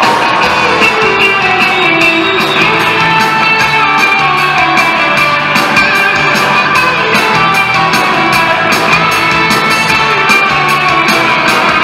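Live band playing a rock-and-roll instrumental intro: guitar over a steady drum beat, before the vocals come in.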